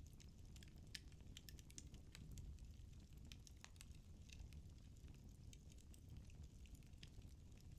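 Firewood burning in a fireplace: faint, irregular crackles and pops over a low, steady rumble from the fire.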